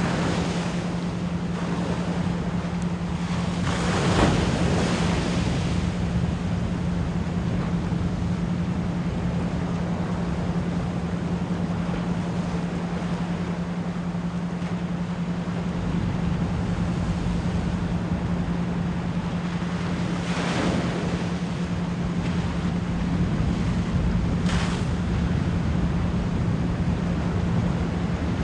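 Ocean waves washing in, with swells breaking a few times and the loudest about four seconds in, over a steady 174 Hz pure tone.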